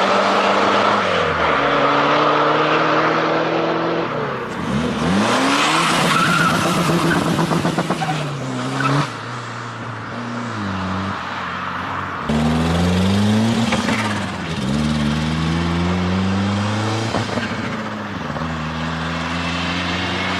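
Car engines revving and accelerating away one after another, the pitch climbing and dropping back with each gear change. A fresh car pulls away noticeably louder about twelve seconds in.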